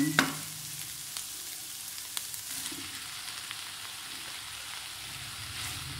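Vegetables, egg and chicken mince sizzling in oil in a non-stick wok: a steady frying hiss, with a few light taps of the spatula on the pan in the first couple of seconds.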